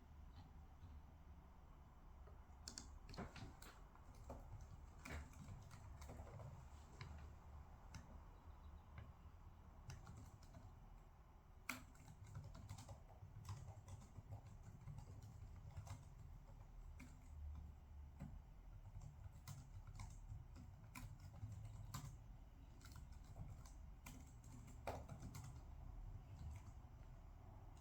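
Faint, irregular typing on a computer keyboard, scattered key clicks with a louder click about twelve seconds in, over a low room rumble.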